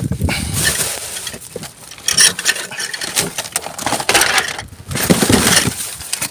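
Rummaging through bin contents: irregular rustling and clattering as items are handled and moved around, in several clumps of activity.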